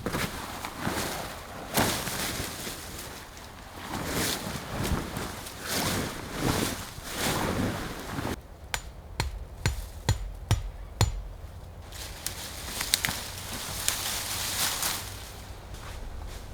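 Rustling and crunching handling noise, then a quick run of about eight sharp knocks, some with a faint metallic ring, like hammer blows, followed by more rustling.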